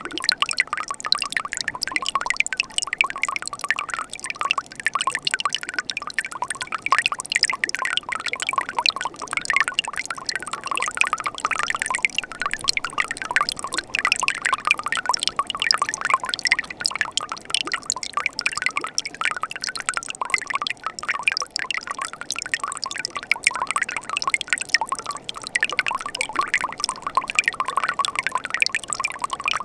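Mountain stream flowing in winter: a steady babble of water with many small splashes and drips.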